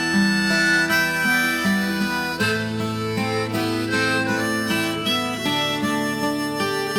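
Harmonica playing a melody over acoustic guitar: the instrumental break between verses of a sung Thai song.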